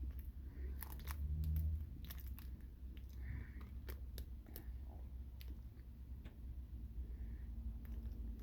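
A person chewing a mouthful of Twinkie sponge cake, with scattered small wet clicks and smacks of the mouth.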